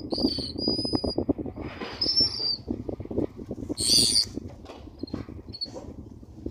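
Crested tern giving harsh, grating territorial calls, the loudest about four seconds in, with thin high whistled notes in the first second or so. A steady low crackling rumble runs underneath.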